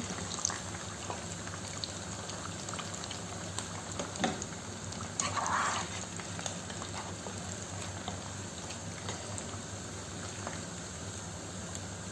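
Hot oil bubbling and sizzling steadily with deep-fried chicken, with scattered light clicks of utensils. There is a short louder scrape about five seconds in.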